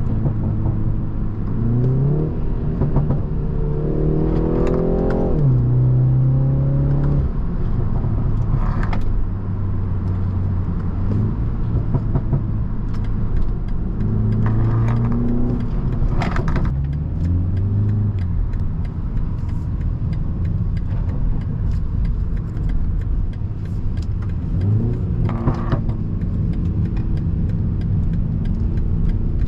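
Stage-2-tuned BMW 330i's turbocharged four-cylinder engine heard from inside the cabin, pulling up through the gears several times: the pitch rises under acceleration and drops at each upshift, over a steady road rumble.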